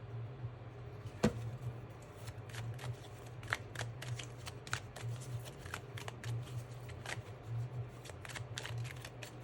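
Tarot cards being shuffled and handled: an irregular run of quick card snaps and clicks over a steady low hum.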